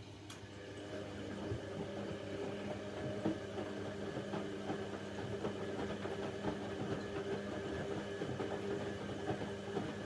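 Bauknecht WA Aquaton 1400 front-loading washing machine turning its drum in the wash phase: the motor hums steadily with light rattling and clicking for about ten seconds, then stops just after the end, as in a wash rhythm of drum turns and pauses.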